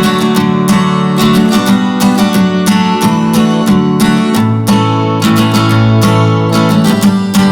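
Background music: acoustic guitar being strummed and plucked, with chords changing about every second or two and a bass note moving down near the middle.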